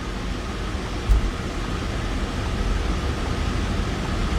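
Steady low rumble and hiss of car cabin noise, with a single thump about a second in.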